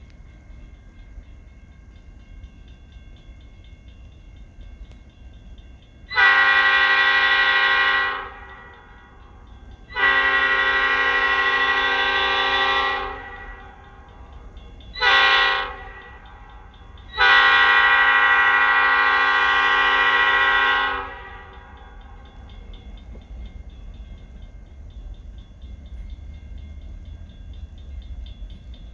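Diesel locomotive horn of ELS 402, an EMD GP38, sounding the grade-crossing signal: two long blasts, a short one and a final long blast, over the low rumble of the approaching train.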